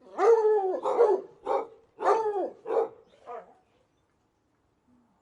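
A dog barking: about six barks in quick succession, two of them drawn out and arching in pitch, the last ones fainter, then it stops.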